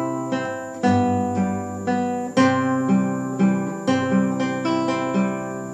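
Classical guitar fingerpicked in slow three-four time: plucked chord notes over bass notes held through each bar, about four bars, the last chord left ringing and fading near the end.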